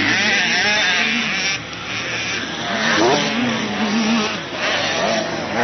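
Motocross motorcycle engines revving up and down as the bikes ride the track, the pitch rising and falling with each throttle change, with a sharp rev-up about three seconds in.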